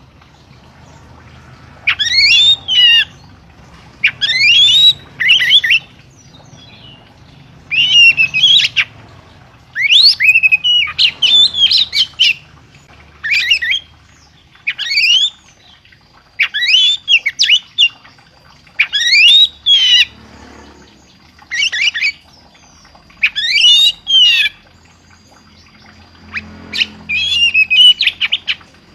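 A songbird sings loud, short phrases of quick sweeping whistled notes, one phrase every second or two with brief pauses between.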